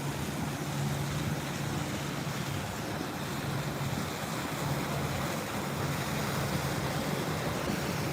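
Steady low engine hum of a large motor yacht passing offshore, under the wash of surf and wind on the microphone.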